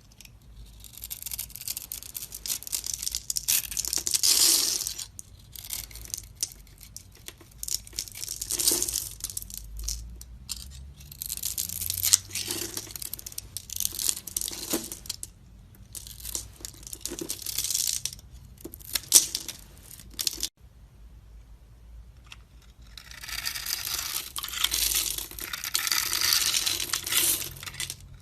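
Knife blade carving into a bar of soap: a series of dry scraping cuts, each lasting a few seconds, with short pauses between.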